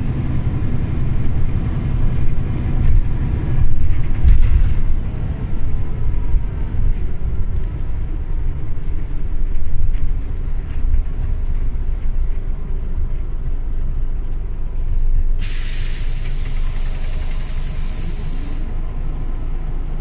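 Scania OmniLink CL94UB city bus running, with steady low engine and road noise. A brief hiss of air comes about four seconds in, and a longer hiss of about three seconds near the end, from the bus's air brakes or pneumatics letting out air.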